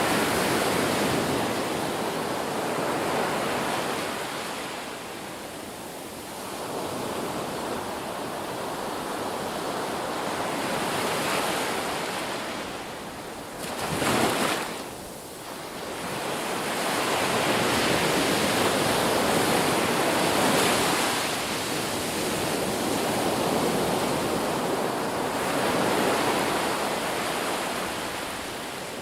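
Ocean surf breaking and washing on a shore, swelling and fading every few seconds, with one short, sharper surge about halfway through.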